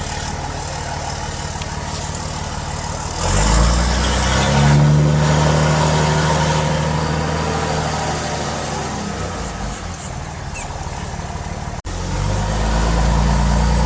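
5.9 Cummins inline-six turbo diesel running through a 4-inch straight-pipe exhaust with no muffler. It rumbles steadily, gets much louder about three seconds in as it is put under throttle, eases off after several seconds, and comes up loud again after a brief break near the end.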